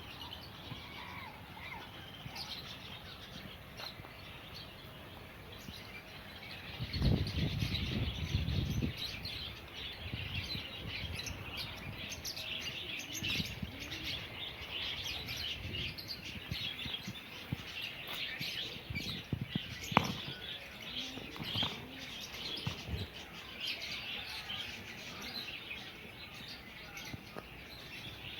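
A dense, continuous chorus of many small aviary birds chirping and twittering at once. About seven seconds in, a louder low rumbling noise lasts for about two seconds, and there is a single sharp click later.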